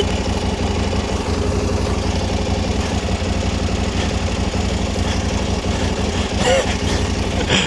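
KTM 790 Adventure R's parallel-twin engine running steadily at low revs.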